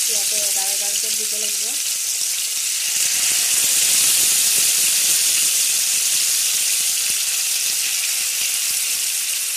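Skewered chicken tikka kebabs shallow-frying in hot oil in a pan, a steady loud sizzle.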